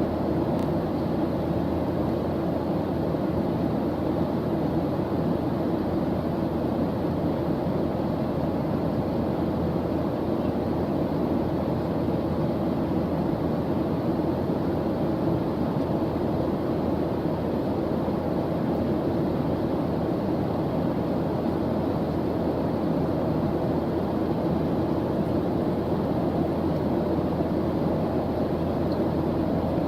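Steady white-noise background track, an even, unchanging hiss weighted toward the low end.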